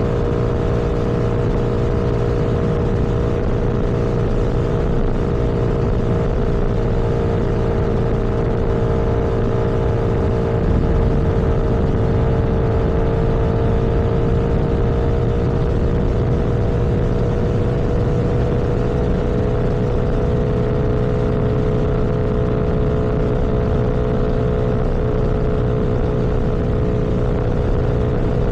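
Vehicle engine running at a steady cruising speed, a constant hum over low road rumble, its pitch sagging slightly about halfway through and then holding steady.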